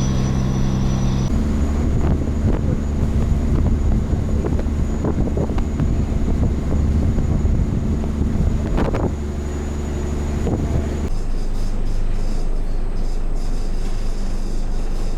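Cargo riverboat's engine running with a steady low drone, wind noise on the microphone over it. The drone changes abruptly about a second in and again near the end, and there is a single sharp knock about two thirds of the way through.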